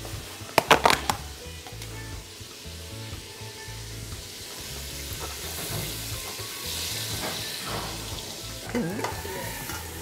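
Garlic and onion sizzling in hot oil in an aluminium pot, with a quick clatter of several knocks about a second in. The sizzle grows louder around the middle as diced pumpkin is tipped into the pot.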